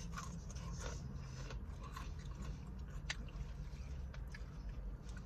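A man chewing a mouthful of disco fries, French fries with gravy and melted mozzarella, with scattered small mouth clicks over a steady low hum.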